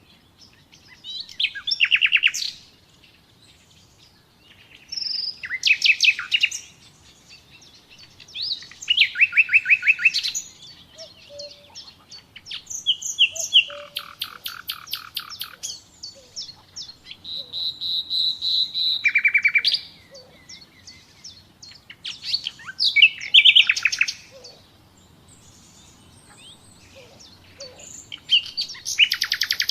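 Common nightingale singing: separate phrases a few seconds apart, each a fast run of repeated notes, with one long steady whistle about halfway through.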